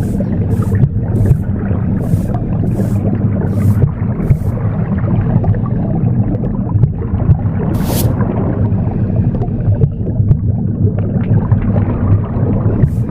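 Womb sound: a steady low whooshing rumble. Over it, a broom sweeps in short swishes, about two a second for the first four seconds or so, then once more around eight seconds in.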